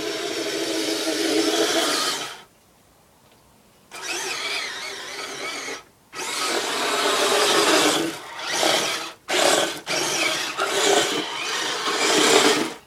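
Kyosho Blizzard radio-controlled tracked snow vehicle's electric motor and drivetrain whirring in bursts. It stops for about a second and a half after two seconds, then runs again with several short cut-offs in the second half.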